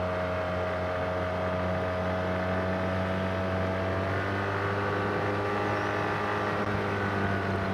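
ATV/UTV engine running steadily at a constant note, with a slight change in its tone about four seconds in.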